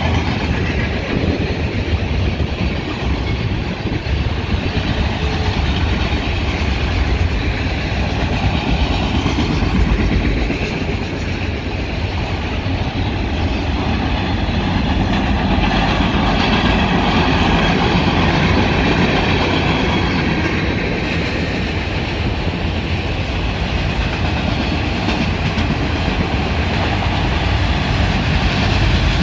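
Freight train cars, loaded bulkhead flatcars and autoracks, rolling steadily past at close range: steel wheels on rail make a continuous noise, strongest at the low end. It grows a little louder near the end.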